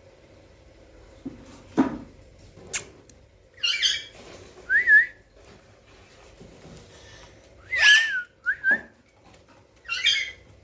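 A pet parrot whistling and squawking: a few short shrill calls and brief whistled notes that waver up and down, spaced out by quiet gaps, with a couple of sharp clicks about two seconds in.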